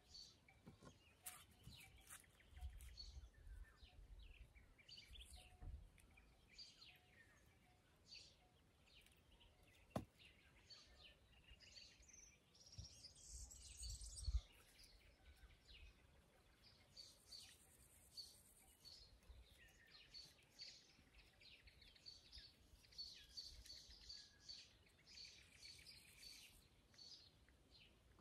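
Faint birdsong: many short chirps and trills from small birds, with a few soft low thumps and rustles, the loudest about fourteen seconds in, and one sharp click about ten seconds in.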